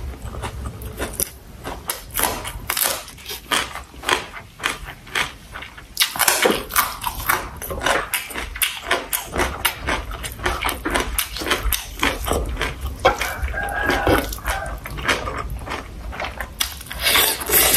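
Close-miked chewing and mouth sounds of a person eating sausage with rice and vegetables: a dense, uneven run of small wet clicks.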